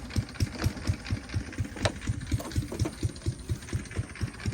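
Yanmar 725 tractor's diesel engine running at low speed with an even, thudding beat of about five pulses a second. A single sharp clank comes about two seconds in.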